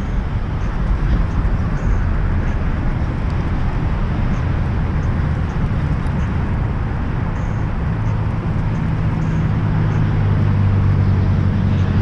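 A motor running steadily with a low rumble; about eight seconds in a steady hum comes up and the sound grows slightly louder.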